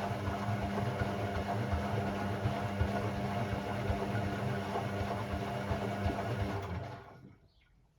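Hoover Sportswear 1300 washing machine's motor turning the drum at a steady speed, a hum with a rumbling churn, then winding down and stopping about seven seconds in.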